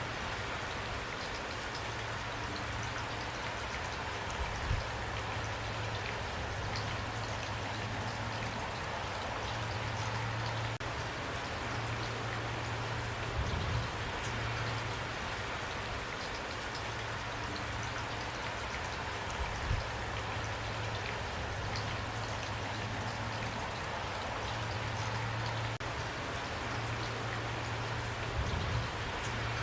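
Steady rain falling, an even patter of drops, with a low hum underneath and a few brief low thumps.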